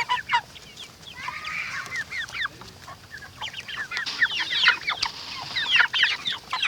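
A flock of Cornish cross meat chickens peeping and clucking, with many short, high calls overlapping. The calls get busier from about four seconds in.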